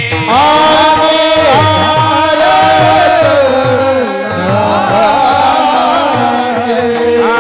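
Devotional kirtan singing: a voice holding long, slowly gliding notes over a steady drone, with regular drum strokes beneath.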